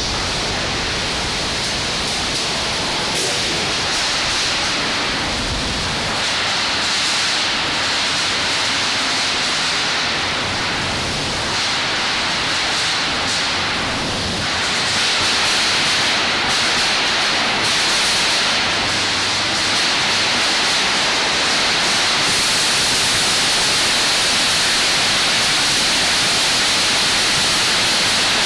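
Windstorm with heavy rain: a loud, steady rushing noise that grows a little louder about halfway through. Described as painfully loud.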